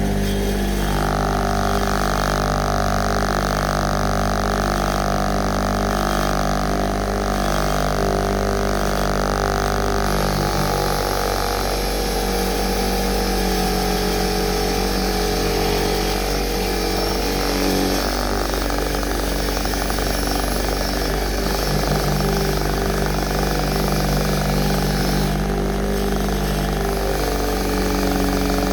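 A motor-driven machine running steadily with a mechanical hum, its pitch shifting a few times.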